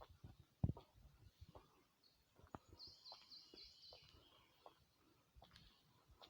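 A bird singing a short phrase of about six quick repeated high notes about three seconds in, over faint outdoor background, with scattered soft knocks; the loudest is a thump under a second in.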